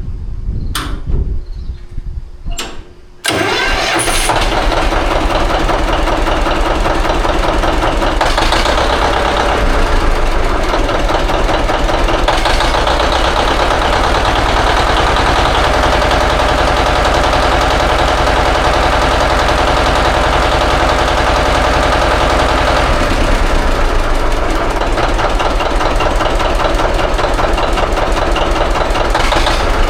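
A few sharp knocks, then about three seconds in an engine starts up and runs steadily.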